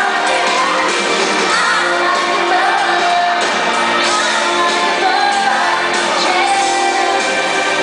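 Live pop song played in concert: a singing voice over the full band, with shouts and whoops from the crowd.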